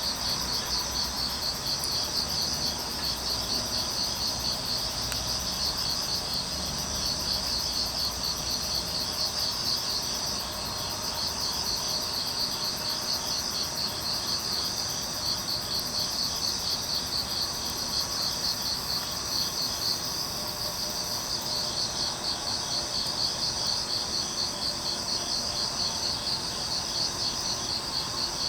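Crickets chirping steadily in a fast, even pulse, with a faint steady background hiss.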